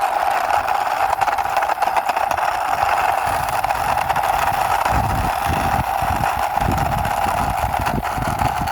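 Steady engine-like drone from a toy motorbike being pushed along by hand, a constant mid-pitched hum over hiss. Low rumbles come in from about five to eight seconds in.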